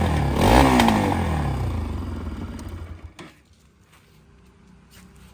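Bajaj Pulsar NS200's single-cylinder engine through its stock exhaust, blipped once about half a second in with the pitch rising and falling. It settles back toward idle, then cuts off abruptly with a click about three seconds in.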